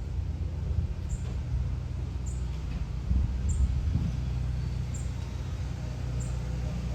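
Low, steady rumble of an aircraft passing at a distance, with a faint high chirp repeating about once a second.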